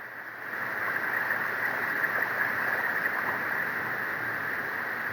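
Drill turning a step drill bit on an extension inside a two-stroke expansion-chamber exhaust, grinding out leftover weld slag: a steady rough grinding noise that starts about half a second in.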